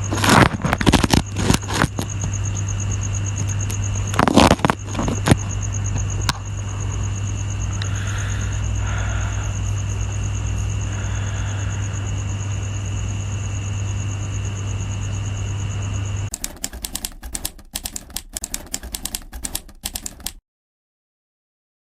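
Scattered sharp clicks and knocks of handling over a steady low electrical hum and a high steady whine. About 16 seconds in, the hum and whine stop and a run of fast, irregular clicks follows, then everything cuts off abruptly.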